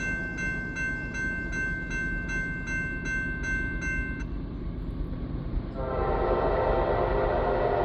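Grade-crossing bell ringing at about three strokes a second over the low rumble of an approaching freight train, stopping about four seconds in. About six seconds in, the horn of a Norfolk Southern AC44C6M lead locomotive starts a loud, steady blast, the loudest sound here.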